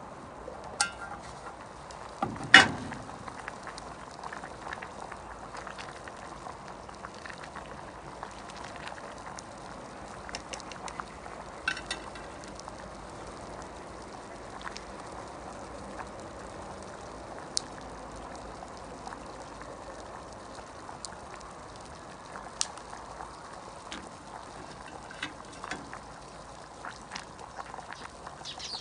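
A pot simmering over a campfire: steady bubbling with scattered sharp crackles and clicks, and one louder knock about two and a half seconds in.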